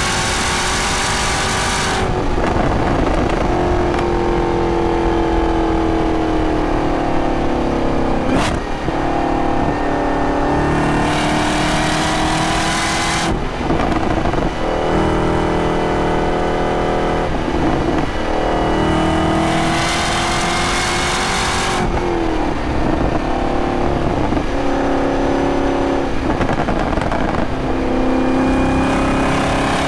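2023 Camaro ZL1's supercharged 6.2-litre V8 under way: the engine note falls off and climbs back several times, with a sharp break about eight and a half seconds in. Spells of louder rushing noise ride over it near the start and again around the middle and two-thirds through.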